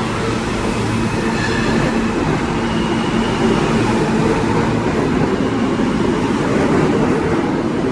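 New York City Subway L train running alongside the platform, a steady loud rumble of wheels on rail with a couple of brief faint high wheel squeals in the first few seconds.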